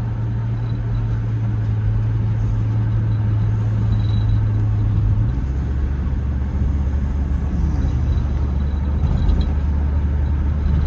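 A 1997 Jeep Grand Cherokee's 4.0 inline-six running as the Jeep is driven on a test drive, with a steady low drone and road noise. The drone's pitch shifts about five seconds in.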